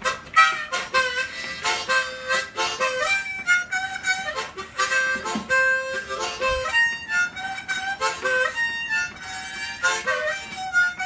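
Harmonica solo between sung verses of a blues song, played as quick runs of short repeated notes mixed with longer held notes.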